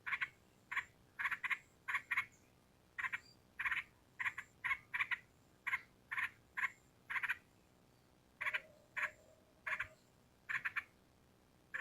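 Yellow-vented bulbul calling: short, chattering notes repeated about twice a second, with a brief pause about eight seconds in.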